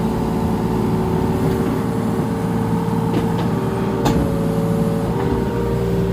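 Mini excavator engine running under hydraulic load, its note shifting slightly as the controls are worked, with one sharp knock about four seconds in.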